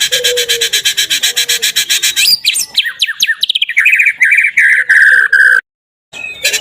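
Recorded birdsong bait track for rousing a white-rumped shama: a fast, even rattle of high notes at about ten a second, then a run of falling whistles and a warbling phrase. It cuts out briefly near the end and the loop starts over.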